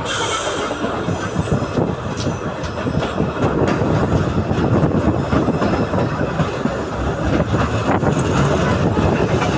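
Passenger train coach running along the track, heard from inside: a steady rumble of the wheels with scattered clicks and knocks from the rails.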